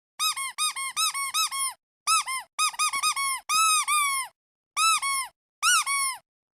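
Squeaky duck toy squeezed over and over. Quick squeaks, each rising and then falling in pitch, come in bursts of several with short pauses between.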